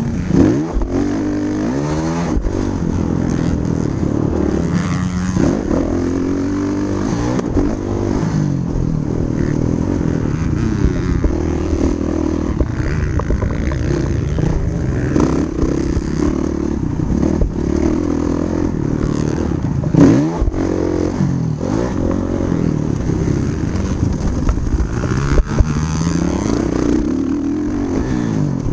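Motocross dirt bike engine being ridden hard round a track, its pitch repeatedly climbing and dropping as it revs up and shifts or backs off. A few sharp knocks stand out, one about two-thirds of the way through.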